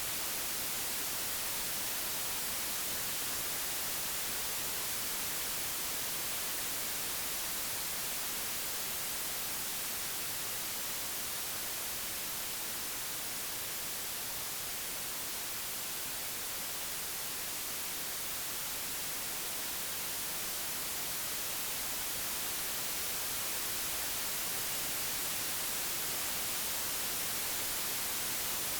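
Steady, even white noise: a constant hiss with no tones or events, a little softer midway through.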